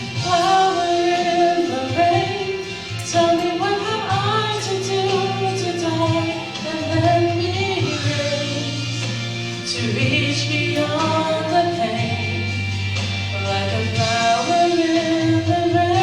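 A woman singing a slow Christian ballad with instrumental accompaniment, holding long notes that slide between pitches over a steady bass.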